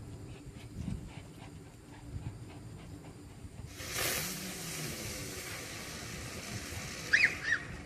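A ground fountain firework catches about four seconds in and hisses steadily as it sprays. Two short high-pitched yelps come near the end.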